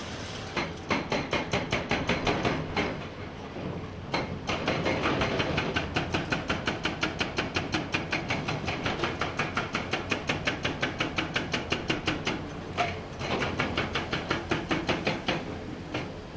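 Hydraulic hammer on a Komatsu PC490 excavator breaking rock: rapid, even blows at about seven a second, in three runs with two short pauses, over the steady noise of the machine's engine.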